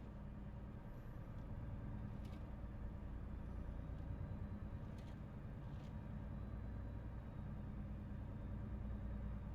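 Volvo FH 500 truck's diesel engine running steadily while driving, a low even drone, with a few faint clicks about two, five and six seconds in.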